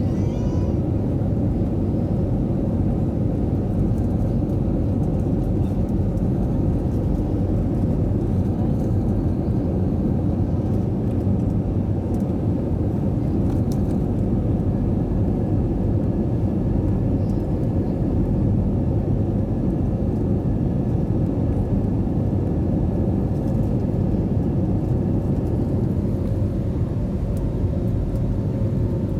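Airbus A320 jet engines and airflow heard inside the passenger cabin: a loud, steady low rumble with a few faint steady whining tones above it.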